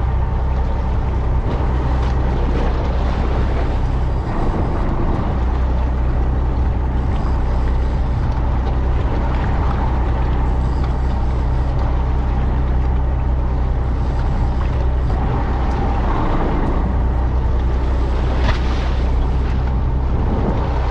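A fishing boat's engine running at a steady speed, a constant low drone with noise of water and wind over it.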